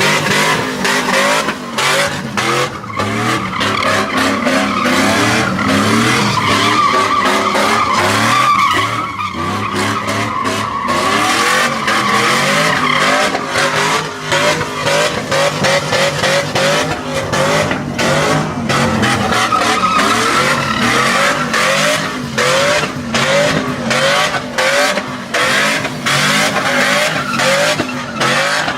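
Trucks doing burnouts: tires squealing steadily while the engines rev hard, rising and falling in quick repeated sweeps, with sharp crackles throughout.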